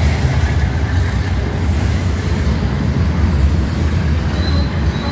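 Freight train running past: a steady, loud rumble of the train rolling on the rails, with a brief thin high tone about four and a half seconds in.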